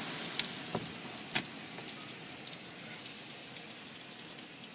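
A car passing on a flooded, rain-soaked street, its wet tyre hiss fading away as it goes, over steady hurricane rain. A few sharp ticks come in the first second and a half.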